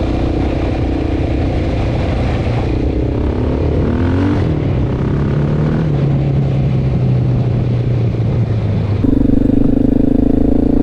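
Honda XR650L's single-cylinder four-stroke engine running while riding. About four seconds in, the pitch shifts and settles lower. About nine seconds in it gets louder and higher as the bike accelerates.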